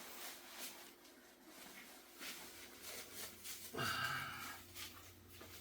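Faint handling noises: scattered light rustles and clicks, with one short, louder sound about four seconds in.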